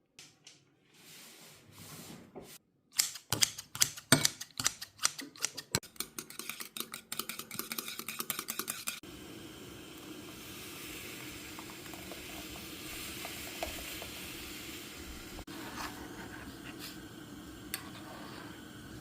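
Kitchen prep sounds for steamed egg: a few seconds in, a run of rapid clicking strokes, typical of eggs being beaten in a bowl. From about halfway through, a steady sizzling hiss from the pot with a few clinks.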